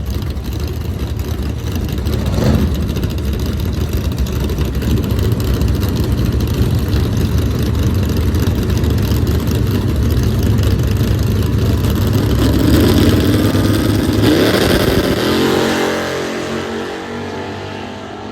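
Race car engines running loud at speed, one rising in pitch as it nears and then dropping in pitch and fading away as it passes, about three-quarters of the way through.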